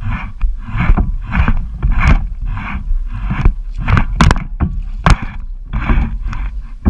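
Kayak being paddled: an even rhythm of water swishes, a little under two a second, over a steady low wind rumble on the microphone. A couple of sharp knocks come about two-thirds of the way through.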